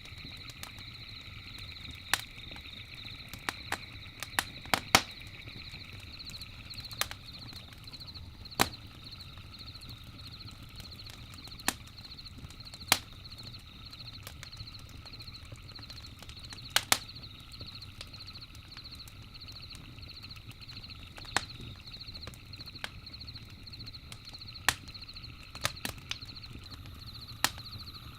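Campfire crackling, with irregular sharp pops, a few of them loud, over a low steady fire noise. A steady high, pulsing chorus runs in the background throughout.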